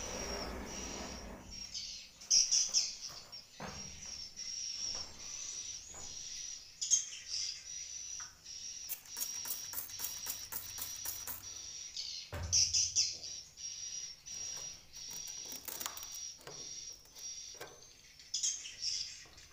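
Edible-nest swiftlets twittering inside a swiftlet house: a steady high-pitched chatter with louder bursts every few seconds and a run of rapid clicks about nine to eleven seconds in. A few dull knocks sound beneath it.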